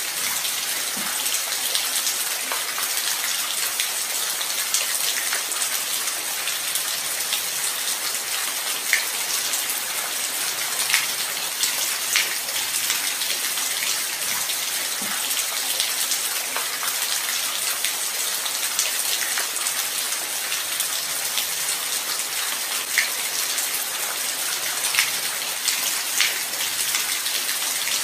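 Steady light rain: an even hiss of rainfall with scattered individual drops ticking clearly now and then.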